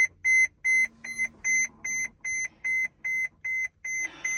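Vehicle dashboard warning chime beeping: short, identical high-pitched beeps, about three a second, evenly spaced.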